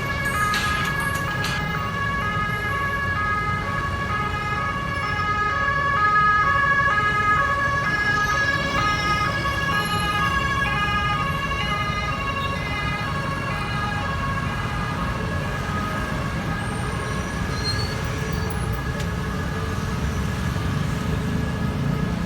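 Road traffic noise with an alternating two-note wail over it, strongest for about the first fourteen seconds and then fainter.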